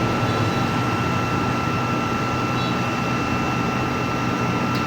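Stick-welding arc burning steadily: an even crackling hiss with a steady high tone running through it.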